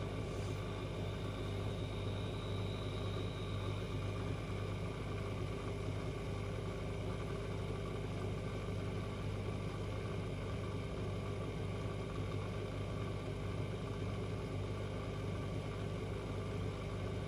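Washing machine running with a steady, even motor hum.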